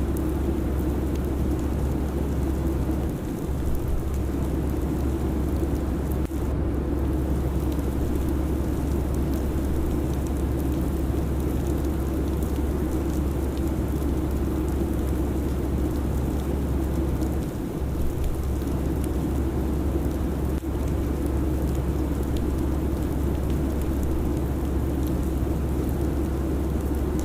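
Steady airliner cabin noise in cruise: a constant low rumble with airflow hiss over it, dipping briefly twice.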